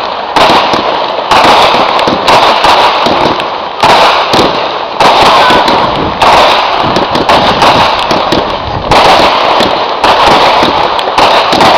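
Fireworks display going off: loud, rapid bangs and dense crackling with no gaps, with a new volley breaking in about once a second.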